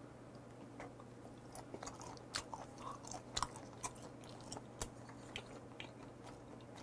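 Chewing a mouthful of raw red sea bream sashimi: faint, irregular short clicks and smacks of the mouth, starting about a second in.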